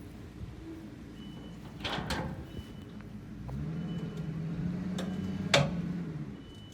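Tow vehicle's engine running and then pulling harder about halfway through, straining to drag a stuck pickup out of its ruts by a chain, with a couple of sharp knocks.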